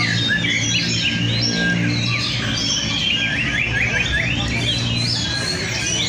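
Several Oriental magpie-robins singing at once: a dense, overlapping run of chirps and whistles with no break. Under it is a low steady hum.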